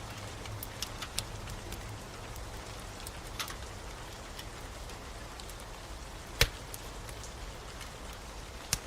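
Steady rain with a wood fire crackling over it: scattered sharp pops and snaps, the loudest about six seconds in and another near the end.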